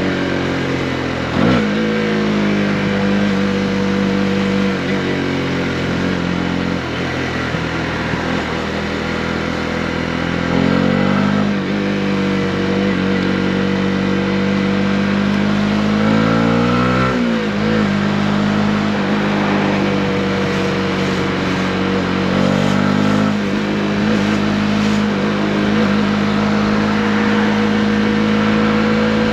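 Honda CB125R's single-cylinder four-stroke engine running at steady revs under way, its pitch swinging down and back up briefly three times: about a second and a half in, about ten seconds in, and about seventeen seconds in.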